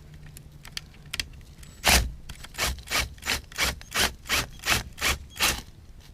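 Hand sawing through a panel: about ten quick, even back-and-forth strokes, roughly three a second, starting about two seconds in, after a stretch of faint scraping.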